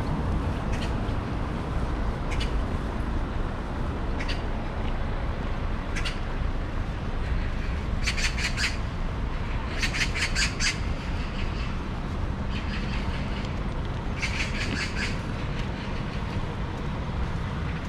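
A bird chattering in three short bursts of rapid repeated notes, about 8, 10 and 14 seconds in, over a steady low rumble.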